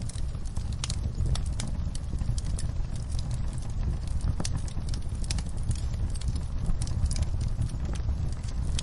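Wood fire crackling, with irregular sharp pops and snaps over a steady low rumble, against an even hiss of rain.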